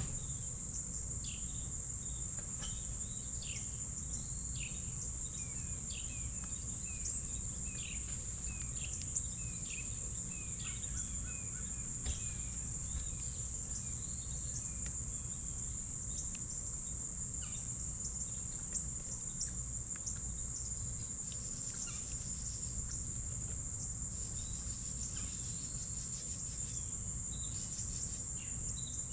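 A steady high-pitched insect drone, with small songbirds chirping over it in quick runs of short notes, busiest in the first dozen seconds and again near the end, over a low outdoor rumble.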